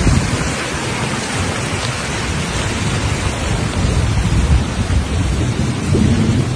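Heavy rain pouring down hard, a dense steady hiss with a continuous, shifting low rumble underneath.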